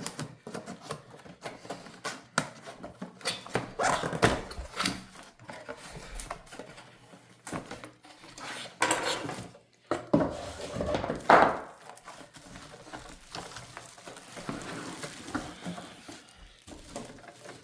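Unboxing noise: a sealed cardboard box being opened and its packaging and plastic parts handled. Irregular rustling, knocks and clatters, loudest around the middle.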